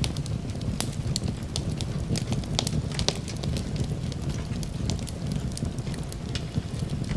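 Fireplace crackling: frequent, irregular sharp pops and snaps over a steady low rumble.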